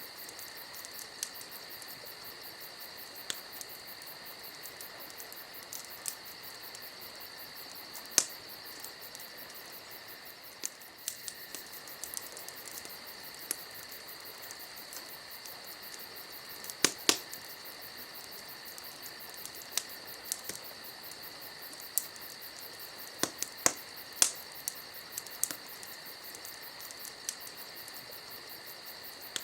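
Campfire crackling, with scattered sharp pops at irregular intervals, the loudest couple about seventeen seconds in, over a steady high trill of crickets.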